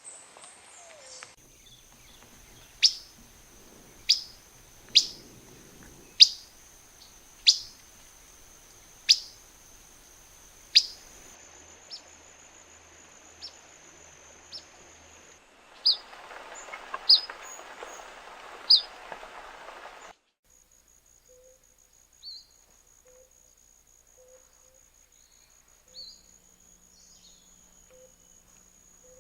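A bird repeating a sharp, high call note that drops quickly in pitch, roughly once a second, with softer calls later.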